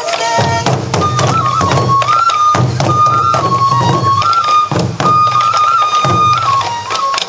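Sansa Odori festival music: a high bamboo flute melody stepping between a few notes over taiko drums beaten in a steady driving rhythm, with the drums breaking off briefly a few times.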